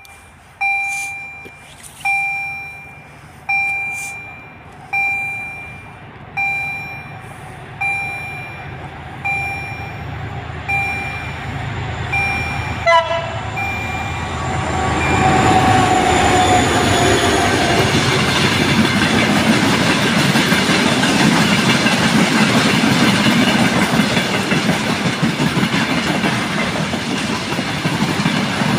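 Level-crossing warning bell striking about once every second and a half, each ring dying away. About halfway through a broad-gauge freight train's locomotive gives a short horn blast. The train then reaches the crossing, and its container wagons run past with a loud, steady rumble and clatter over the rails.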